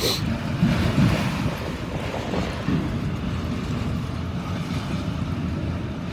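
Freight train of auto rack cars rolling past close by: a steady low rumble and clatter of steel wheels on rail, with a few stronger surges about a second in. A brief click comes at the very start, and wind buffets the microphone.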